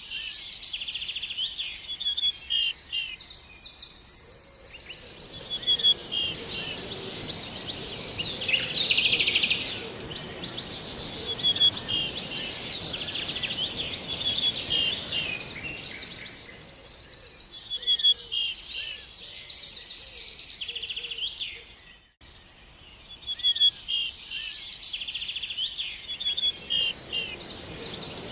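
Songbirds singing: a dense mix of quick high chirps, whistled notes and rapid trills, with a steady high hiss behind them for long stretches. The song drops out briefly about three quarters of the way through, then resumes.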